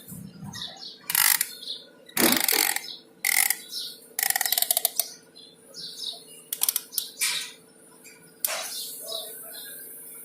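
Birds chirping, broken by several loud, harsh mechanical rasps and clanks at irregular moments, one of them a quick rattle like a ratchet, over a steady low hum.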